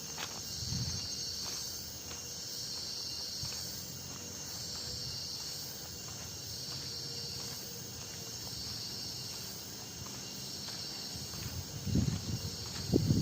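Forest insect chorus: a steady high buzzing that swells and fades roughly every two seconds, with faint footsteps on the trail. Near the end a loud, low, rumbling noise cuts in.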